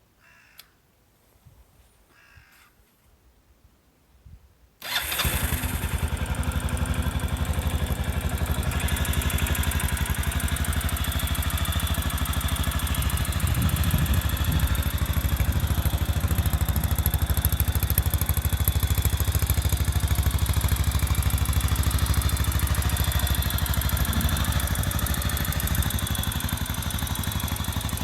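Kawasaki Estrella RS single-cylinder engine starting about five seconds in, after a few faint clicks, then running steadily through its stock muffler.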